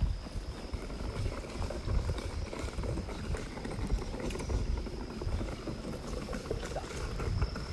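Wood fire burning in a steel fire stand, crackling with many small irregular pops, over an uneven low rumble.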